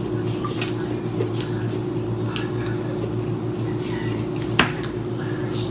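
Close-miked eating sounds: a person chewing, with soft mouth clicks over a steady low hum, and one sharp click about four and a half seconds in.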